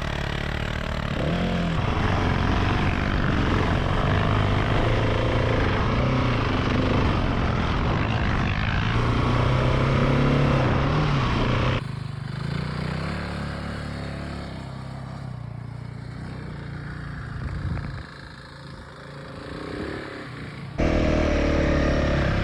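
Single-cylinder trail motorcycle engines running while riding, the engine note rising and falling. The sound changes abruptly twice, and is quieter for a stretch in the second half.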